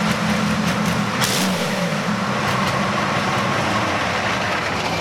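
Transmash V-84MS V12 diesel tank engine running loud and steady, its pitch dipping briefly about a second and a half in and then holding.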